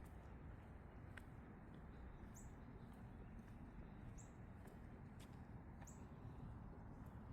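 Faint, high bird chirps, four short calls a second or two apart, over a quiet low outdoor rumble.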